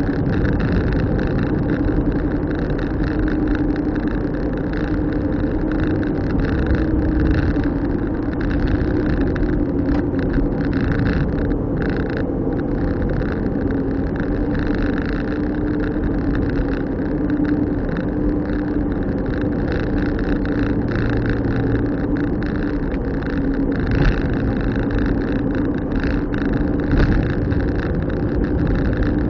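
A car being driven, with a steady drone of engine and road noise.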